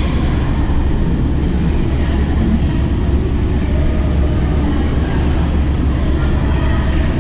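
Steady low rumble of a badminton hall, with a sharp crack about two seconds in, typical of a racket striking a shuttlecock, and a few fainter hits later.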